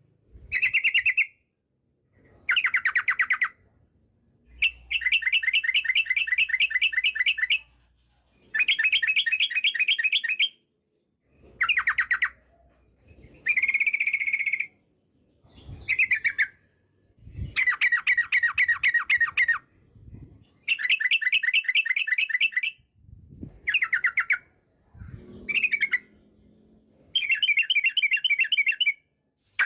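Yellow-vented bulbul (trucukan) singing in repeated bursts of fast chattering notes, about a dozen phrases each one to three seconds long with short pauses between.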